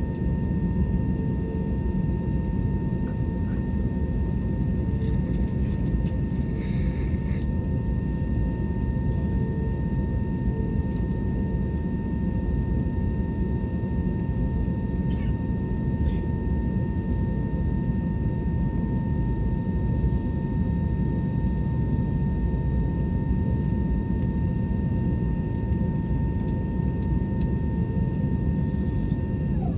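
Airbus A320neo airliner in flight: a steady, loud engine and airflow roar with a steady whine above it. The whine dips in pitch just before the end.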